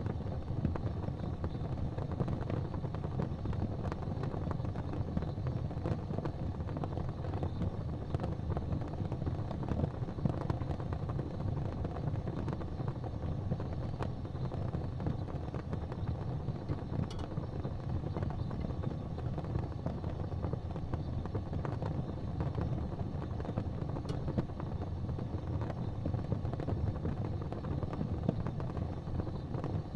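Fire burning in a fireplace: a steady low rumble with a few sharp crackles.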